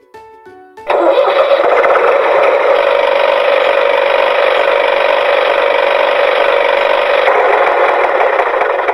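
A few short electronic beeping notes, then from about a second in a steady engine running sound.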